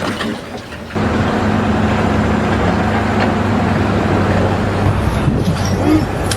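An engine running steadily with a low, even hum, after a brief quieter moment at the start.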